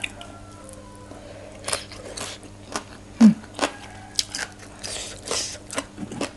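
A mouthful of som tam being chewed close to the microphone: a string of crisp crunches and wet mouth clicks, the loudest a heavy crunch about three seconds in.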